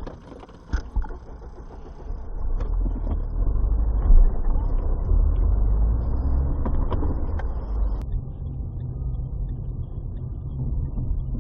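Low engine and road rumble of a car driving, as picked up by a dashcam, with a few light clicks and a brief louder thump about four seconds in.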